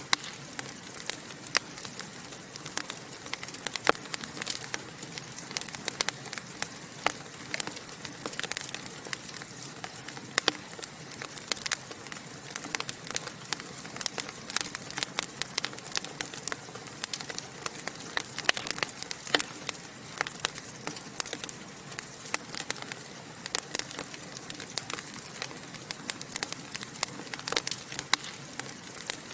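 Wood fire crackling and popping in a fireplace: a steady hiss under dense, irregular sharp snaps.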